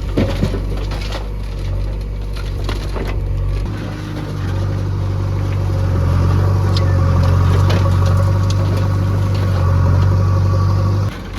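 JCB 3DX backhoe loader's diesel engine running, its note rising and growing louder about four seconds in as it takes load. A few sharp knocks come in the first three seconds, and the engine sound drops suddenly just before the end.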